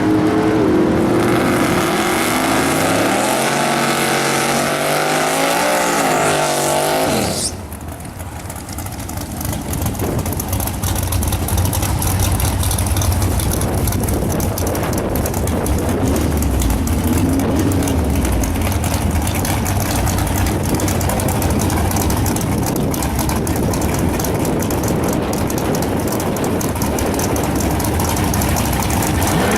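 Alcohol-fueled, naturally aspirated small-block Chevy V8 revving up with a rising pitch and holding high revs for about seven seconds. The revs then drop abruptly to a low, rough idle rumble that carries on to the end.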